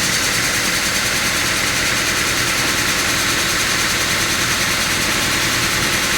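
Sawmill machinery running steadily: a constant loud drone and hiss with no let-up.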